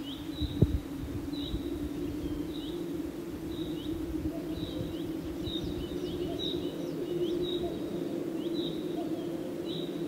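A bird calling over and over in short, high, hooked chirps, about one or two a second and quickening in the middle, over a steady low hum and rumble. A single sharp knock sounds about half a second in.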